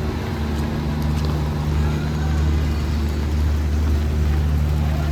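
A motor vehicle engine running steadily close by, a constant low hum over street noise, getting a little louder about two seconds in.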